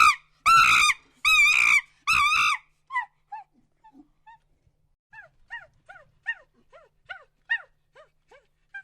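Repeated high-pitched animal cries: loud arching calls in the first two and a half seconds, then fainter short falling chirps at about two a second.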